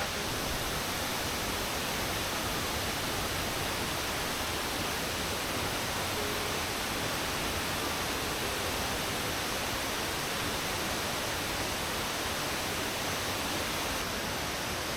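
Waterfall: falling water making a steady, even rush that holds at one level throughout.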